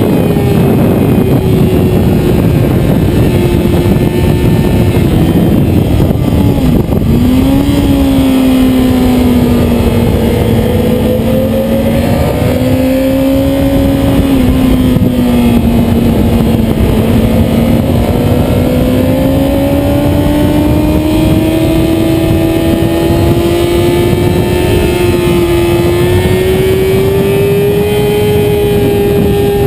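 Motorcycle engine running hard at track speed over a loud, constant rushing noise. The engine note dips sharply about seven seconds in, then climbs slowly and steadily through the rest.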